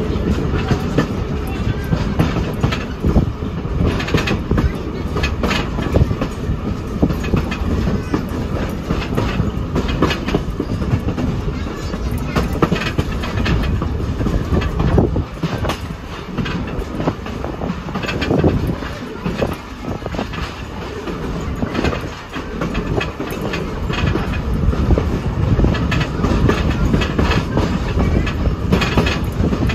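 Railroad passenger cars of a steam train rolling along the track: a steady rumble with irregular clicks of the wheels running over the rails.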